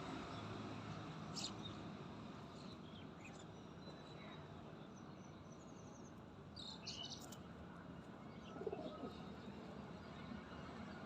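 Birds chirping in scattered short high calls over a faint steady background hiss, with a clutch of calls about six to seven seconds in.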